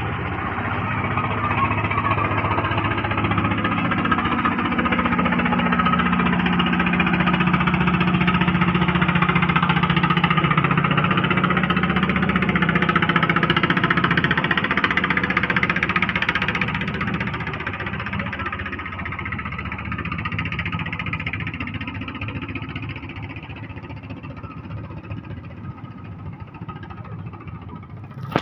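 Klotok river boat engine running, growing louder, loudest in the middle, then fading toward the end.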